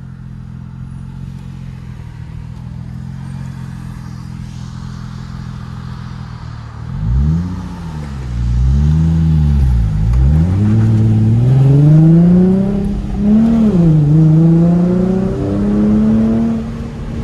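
Nissan 350Z's 3.5-litre V6 through an aftermarket Tomei exhaust, idling steadily, then revved up and down twice about seven seconds in. It then pulls away with the revs climbing, drops sharply at a gear change, and climbs again near the end.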